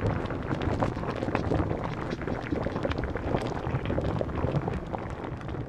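Grape juice gushing out of a winery tank under pressure during a failed tank transfer: a steady rushing spray with many small splatters, fading near the end.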